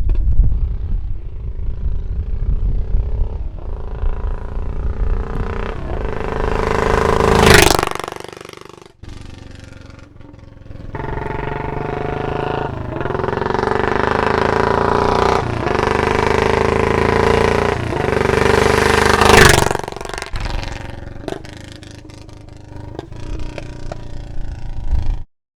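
Royal Enfield Bullet 500's single-cylinder engine through a Punjab Long Bottle silencer, riding past twice: the exhaust note builds to a loud peak as the bike goes by about seven seconds in, fades, then builds and passes again near twenty seconds in before dying away. The recording cuts off suddenly near the end.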